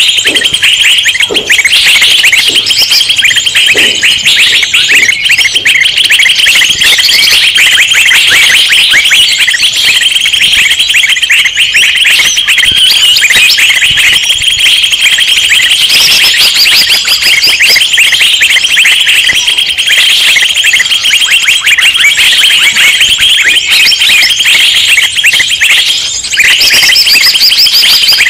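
Loud, dense chorus of many small birds chirping and twittering rapidly over one another without pause: a noisy bird-lure (pikat) recording meant to draw in wild birds. It briefly drops away about 26 seconds in.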